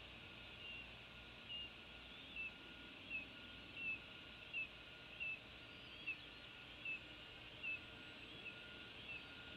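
A bird chirping: short, high, slightly falling notes repeated steadily, about one every three-quarters of a second, over a faint background hiss.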